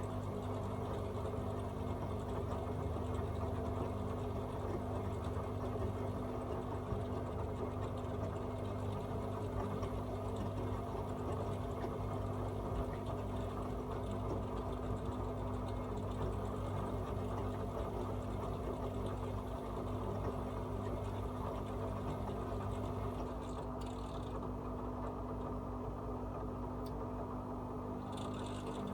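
AEG Öko-Lavamat 74780 front-loading washing machine running a 60 °C coloureds wash: a steady motor hum as the drum turns, with a brief hiss near the end.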